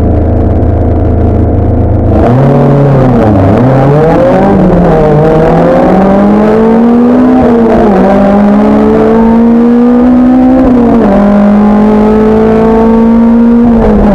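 Race car engine heard from onboard, held at steady revs, then about two seconds in launching away hard. It accelerates, its pitch climbing and then dropping at each of several upshifts.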